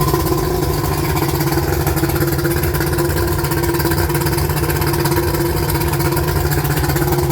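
1992 Mercury 200 XRi 2.5-litre two-stroke V6 outboard running steadily at a fast idle, which the owner finds way too high.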